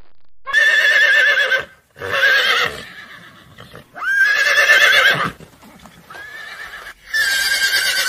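Horse neighing: about five whinnies in a row, each a second or less long with a quavering, wavering pitch and short pauses between them.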